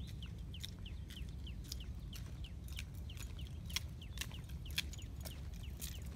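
A small bird calling over and over with short, high, downward-curving chirps, two or three a second, mixed with scattered footsteps on a dirt road and a steady low rumble.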